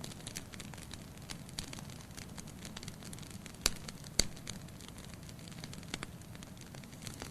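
Wood fire crackling in a fireplace: a steady low rumble under many small crackles, with two loud pops about half a second apart a little past the middle.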